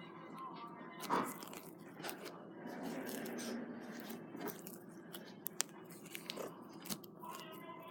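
Slime being squeezed and worked by hand, crackling and crunching, with scattered sharp clicks.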